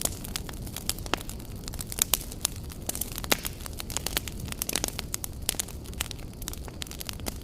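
Wood fire burning, with irregular crackles and sharp pops from the burning logs over a steady low rumble.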